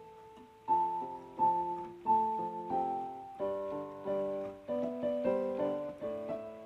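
Background piano music: a slow melody of struck notes over soft chords.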